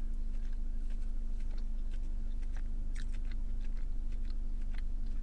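Close-up chewing of a soft, chewy churro: scattered small wet mouth clicks over a steady low hum.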